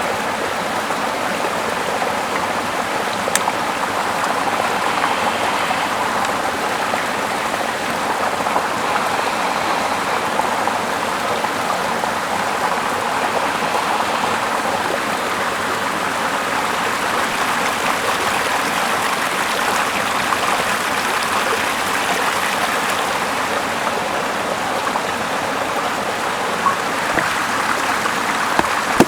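Small river running steadily, a continuous even rush of flowing water.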